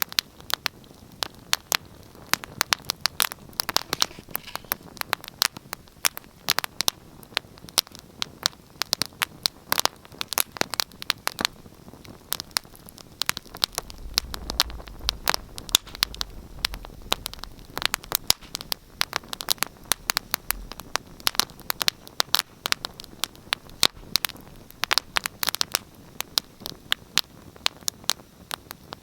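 Wood fire burning in a fireplace, crackling and popping in dense, irregular snaps over a soft hiss. A low rumble swells for several seconds around the middle.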